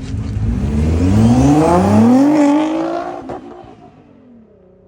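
A car engine accelerating hard, its pitch climbing steeply for about two seconds, then fading away as the car pulls off.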